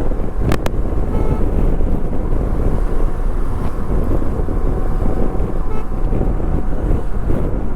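Wind buffeting the action camera's microphone during a motorcycle ride, over a steady low rumble of the bike and surrounding traffic. Two sharp clicks come about half a second in.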